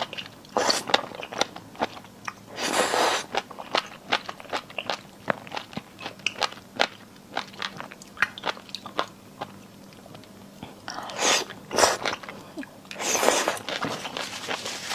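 Close-miked crunchy chewing of sour and spicy marinated jellyfish: a steady run of quick crisp crunches, with a few louder, longer bites through the stretch.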